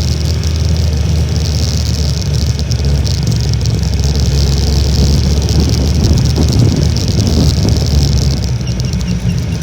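Honda Little Cub's small single-cylinder four-stroke engine running steadily while riding, under heavy wind rush on the microphone.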